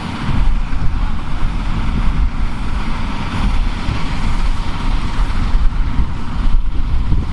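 Engine of vintage farm machinery running steadily, with wind buffeting the microphone.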